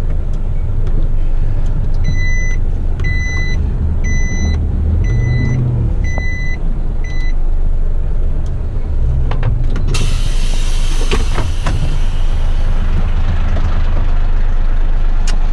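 Eight-wheeler twin-steer waste truck's diesel engine running, its reversing alarm beeping six times, about once a second. About ten seconds in, a sudden loud hiss starts and fades over several seconds.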